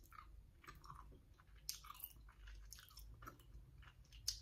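Quiet chewing of a sour cherry gummy candy, with soft scattered mouth clicks; one slightly louder click comes about a second and a half in and another near the end.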